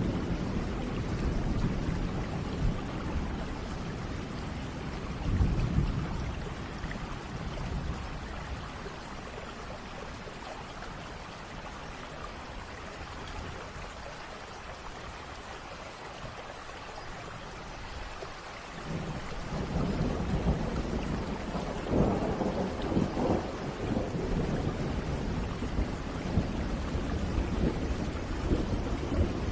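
Steady rain with rolling thunder: a rumble about five seconds in, a lull, then a longer, louder rumble building from about two-thirds of the way through.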